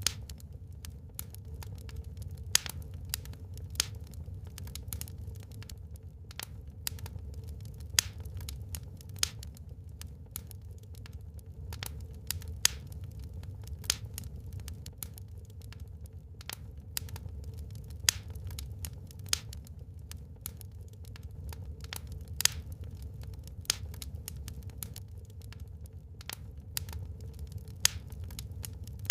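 Wood fire burning in a fireplace: irregular sharp crackles and pops, several a second with an occasional louder snap, over a steady low rumble.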